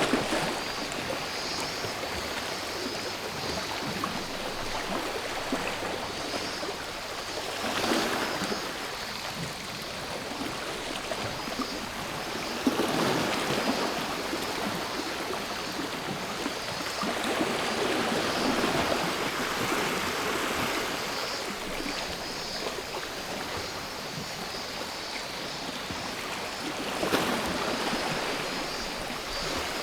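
Sea waves washing onto the shore, a rush of noise that swells every few seconds, over the steady high buzz of cicadas.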